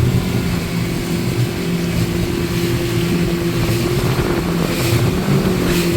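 Motorboat engine running steadily, an even low hum heard from aboard the boat.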